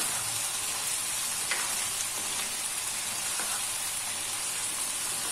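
Chicken karahi sizzling in a wok as it is fried down in its masala and stirred with a spoon, a steady sizzle with a few light clicks of the spoon against the pan.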